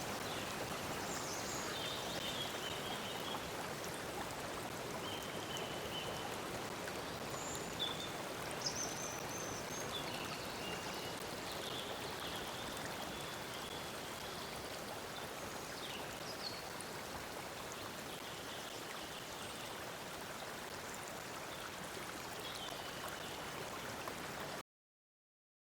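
Steady rush of a flowing stream, with birds chirping now and then over it. The sound cuts off abruptly near the end.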